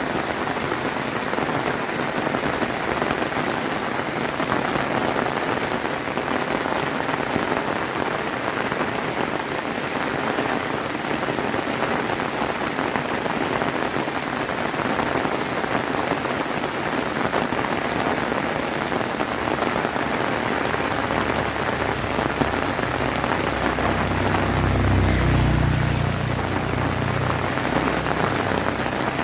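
Heavy rain falling steadily in a dense, even hiss of drops. Near the end a low rumble swells briefly and fades.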